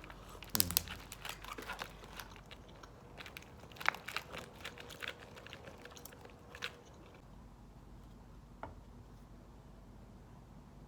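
Crunchy food being bitten and chewed close to the microphone: a run of crisp crunches that stops about seven seconds in, with one more crunch a little later.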